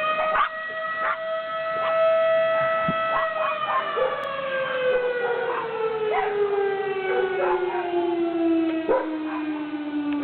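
Town warning siren sounding one steady tone, then slowly falling in pitch as it winds down from about three seconds in, while dogs bark and howl along with short yelps throughout.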